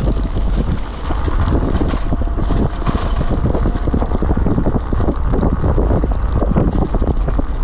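Kugoo Kirin V3 Pro Plus electric bike rattling and knocking as it rides, with wind on the microphone. The rider suspects the clatter comes from a loosely mounted controller bouncing up and down inside the frame.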